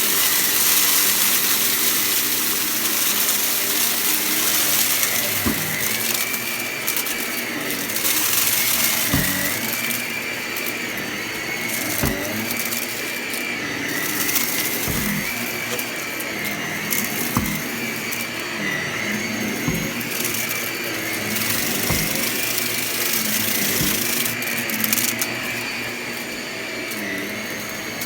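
Vacuum cleaner running as it is pushed back and forth, its whine rising and falling about every two seconds with each stroke. Scattered sharp clicks come from crunchy debris being sucked up.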